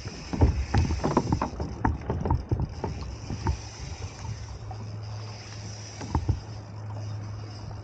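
Irregular knocks and clicks from handling tackle against a plastic kayak while fighting a hooked fish, over water and wind noise. About halfway in the knocking eases off and a steady low hum sets in.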